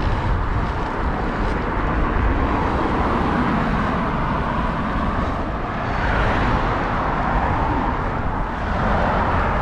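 Steady road noise heard from a moving bicycle on a main road: wind rumbling on the microphone and motor traffic going by, swelling slightly about six seconds in.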